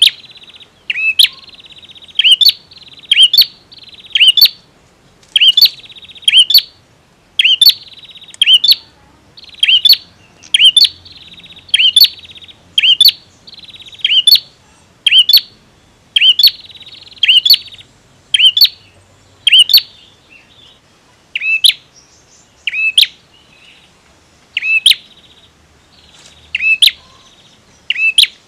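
Male bar-winged prinia calling persistently: a long run of sharp, downslurred notes, often in pairs, about one to two a second. A buzzy trill fills the gaps between them in the first half and thins out later.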